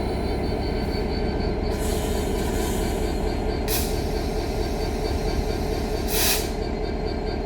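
Diesel freight locomotive starting away from a stand under power, its engine running hard with a dense low rumble. Two short high hisses come about three and a half and six seconds in.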